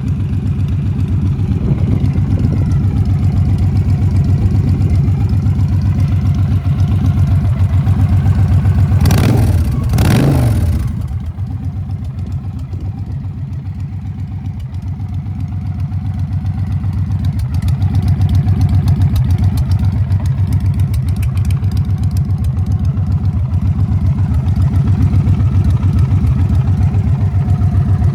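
Victory Hammer motorcycle's V-twin engine idling with a steady, pulsing beat. It is revved twice in quick succession about a third of the way in, each rev rising and falling back to idle.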